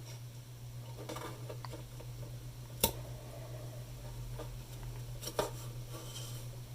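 Wooden side panel being handled and set against a radio case: light rustling, a sharp tap about three seconds in and a softer knock a couple of seconds later, over a steady low hum.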